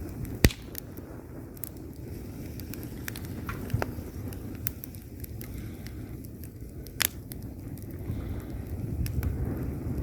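Wood logs burning in a fireplace: a steady low rumble of flames with scattered sharp crackles and pops, the loudest about half a second in and about seven seconds in.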